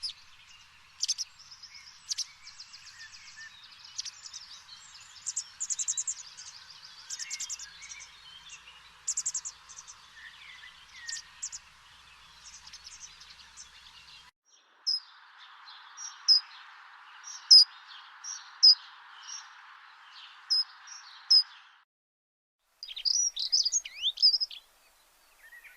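Small birds chirping and trilling in short high calls over a steady hiss. The hiss cuts out abruptly about halfway through and again for a moment near the end.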